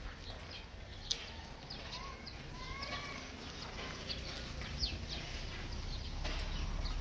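A scatter of short high chirps from small birds, with a brief arching call a couple of seconds in and two sharp clicks, over a low rumble that grows louder near the end.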